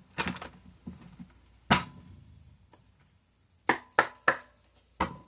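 Tarot cards being handled: a handful of sharp slaps and snaps, three of them in quick succession past the middle.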